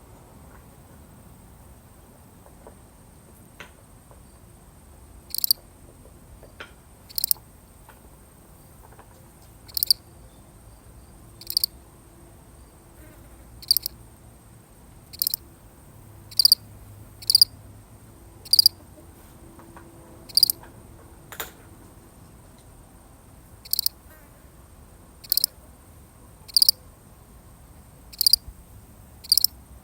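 A single cricket chirping: short, high-pitched chirps about every one to two seconds, starting some five seconds in after a pause.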